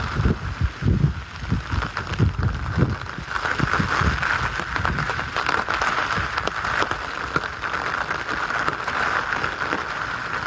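Typhoon wind and rain: gusts buffet the microphone in uneven low thumps for the first few seconds, over a steady hiss of rain that grows stronger about three seconds in.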